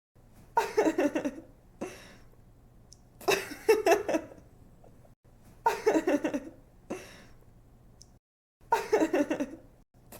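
A young woman giggling, a laugh sound effect repeating in four short bursts a couple of seconds apart. Each burst is about a second of quick "ha-ha" pulses.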